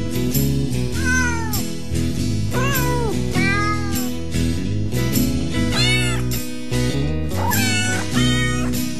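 Cat meows repeating every half second to a second, each one rising and falling in pitch, over background music with steady held low notes.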